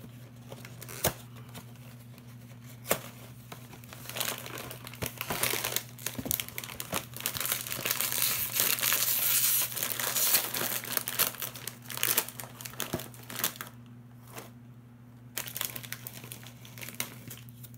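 A cracker package being opened by hand: its wrapper crinkling and tearing. It starts with a few sharp clicks, grows into dense, continuous crinkling in the middle, and trails off into a few last rustles near the end.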